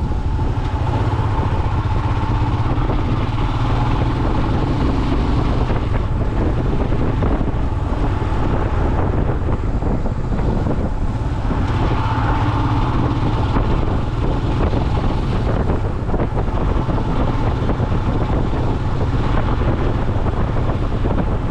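Motorcycle riding at a steady pace, its engine running under heavy wind rush on the microphone.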